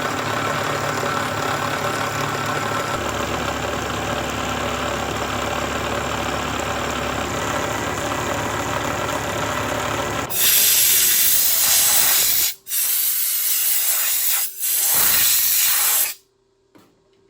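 Milling machine running steadily while cutting a key slot. About ten seconds in it gives way to a loud hiss of compressed air blowing the chips off, in three spells with two short breaks, which stops shortly before the end.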